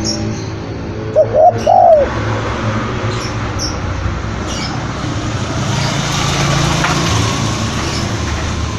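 Spotted dove cooing: three quick coos about a second in, the last the longest and loudest, over a steady background hiss.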